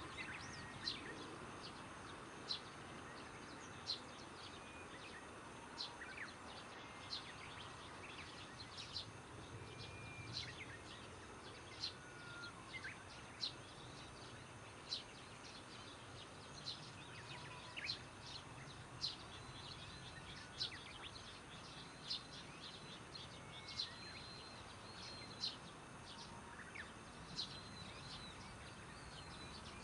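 A bird repeating a short, sharp, high call about every second and a half, over a faint steady background of insects and outdoor noise at dusk.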